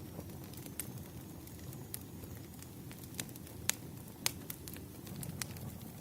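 Campfire crackling: scattered sharp pops and snaps of burning wood, two of them louder about halfway through, over a steady low rumble of the fire.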